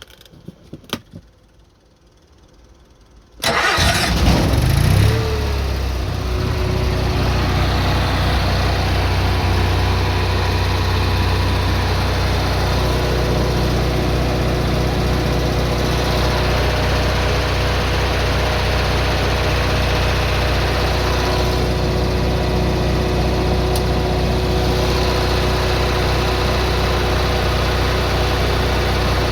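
A few short clicks, then about three and a half seconds in the Kohler Confident 5 generator's engine starts suddenly, briefly rising in pitch as it comes up to speed. It then settles into steady running.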